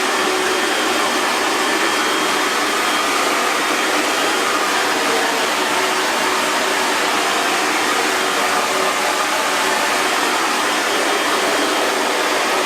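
Hair dryer running steadily: an even, constant rush of blown air with a faint steady motor whine.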